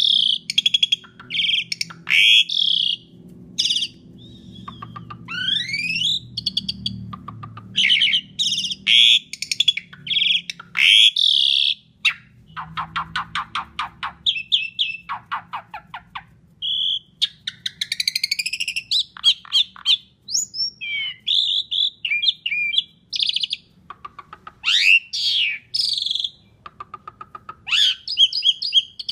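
Asian pied starling singing a loud, varied song of chirps, whistles and rising sweeps, with a rapid clicking rattle about halfway through.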